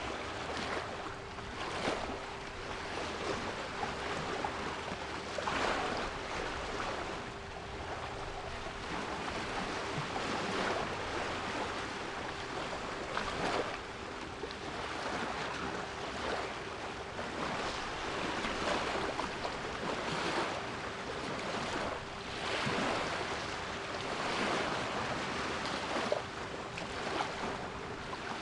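Sea waves surging and washing in irregular swells every few seconds, with a steady 396 Hz pure tone held underneath.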